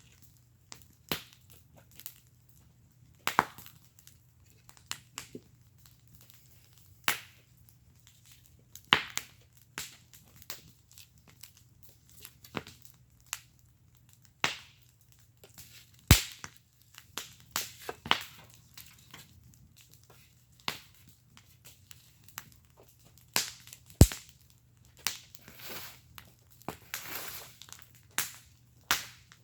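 Wood fire burning in a fire pit, crackling with irregular sharp pops and snaps; two snaps, one about halfway through and one later, are much louder than the rest. A short stretch of soft hissing comes near the end.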